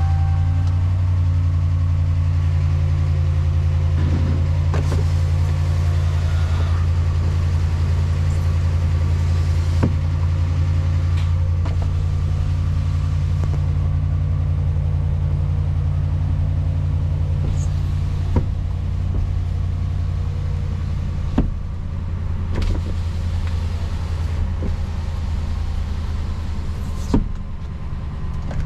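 2013 Dodge 1500 pickup's 5.7-litre Hemi V8 idling steadily after being started, with a few sharp clicks now and then.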